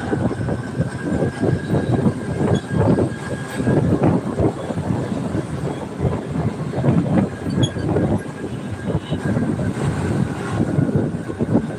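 Train running along the rails: a loud, uneven rumble with a faint steady whine above it.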